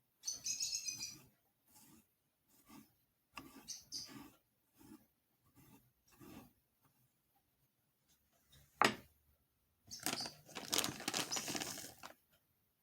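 Kitchen handling sounds: scattered light taps and rustles, a sharp knock about nine seconds in, then about two seconds of crinkling near the end.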